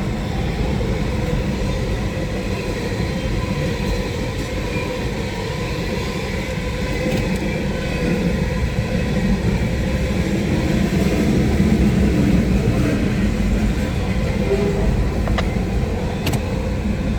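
A Norfolk Southern train rolling past close by: a steady rumble and clatter of steel wheels on the rails, swelling a little in the middle.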